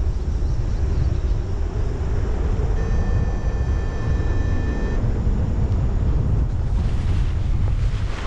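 Strong wind buffeting the microphone in a loud, steady rumble. About three seconds in, a steady high electronic tone sounds for about two seconds.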